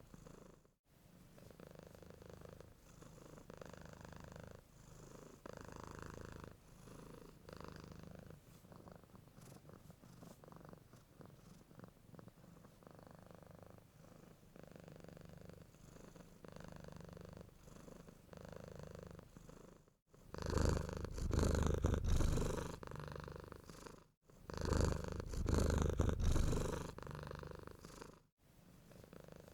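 Domestic cat purring in a steady pulsing rhythm, soft at first and much louder and closer over the last third. A few brief silent breaks interrupt it.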